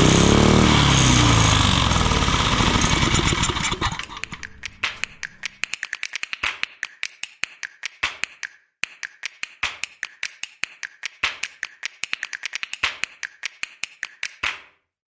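Go-kart's small rototiller engine running, its pitch falling and rising as the revs change, then stopping about four seconds in. After that comes a long irregular string of sharp clicks and taps.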